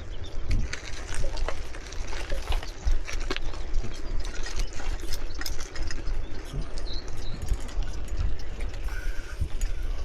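Wind buffeting the microphone during a bicycle ride, with irregular clicks and rattles, typical of a moving bike.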